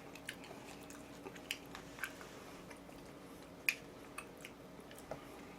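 A person chewing food, quiet and close to the microphone, with scattered soft wet mouth clicks, the sharpest about three and a half seconds in.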